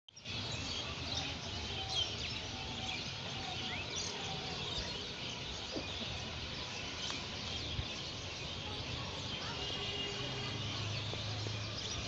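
Many small birds chirping over a steady outdoor hiss, with a few faint knocks.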